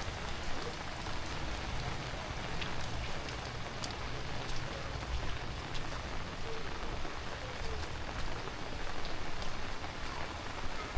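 Heavy rain falling steadily, with scattered sharp ticks of single drops hitting close by.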